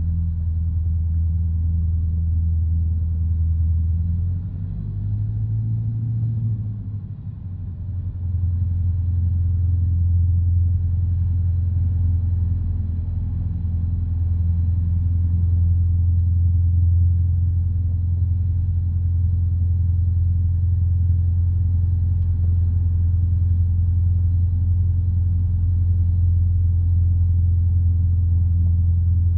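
Light aircraft's piston engine running in a steady low drone. About four seconds in its note drops and the sound dips for a few seconds, then it comes back up and runs steadily at a slightly higher level: a change in power setting.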